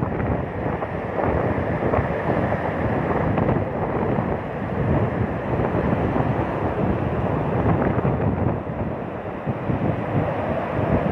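Strong wind buffeting the microphone over the steady rush of rough sea surf, loud and gusting throughout.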